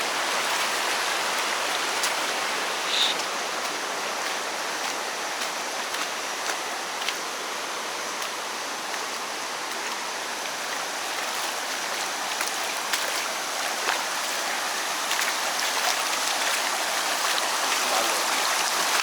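Steady rushing water, with a few faint ticks and taps over it.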